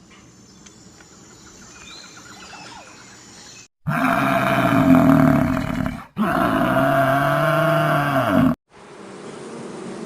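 An animal calling twice: two loud, pitched calls of about two seconds each, the second bending in pitch, after a few seconds of faint background.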